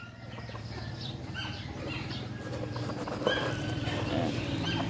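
Short bird chirps here and there over a low steady hum.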